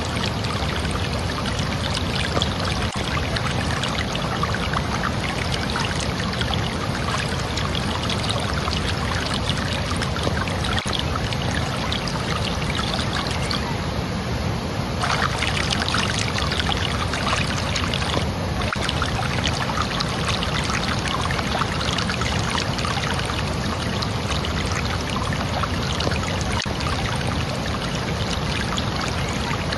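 Water flowing and splashing in a steady, continuous rush, like a stream or a small fall pouring over rocks.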